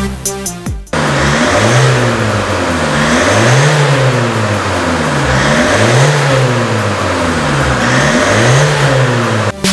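2016 Kia Sportage engine revved through its exhaust, its pitch rising and falling smoothly four times in a row, about one rev every two seconds.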